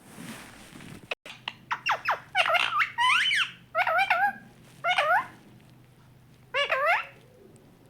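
Pet parrot making a series of short, squeaky calls that sweep up and down in pitch, about six in a row with short pauses between them.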